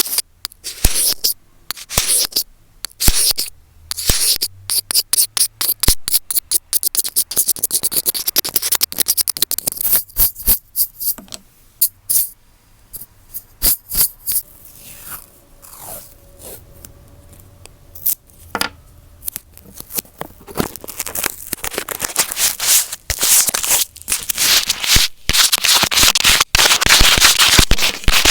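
Fingers scratching, rubbing and tapping right on an earphone microphone: rough close-up scraping broken by sharp clicks, turning into a dense, louder scratching in the last several seconds.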